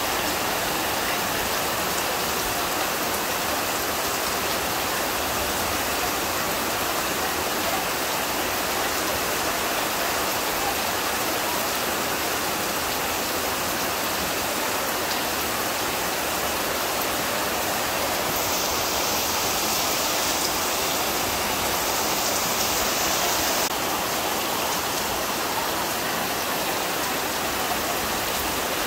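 Heavy rain falling steadily, with runoff pouring off a roof edge onto wet ground. The hiss grows sharper for a few seconds about two-thirds of the way through.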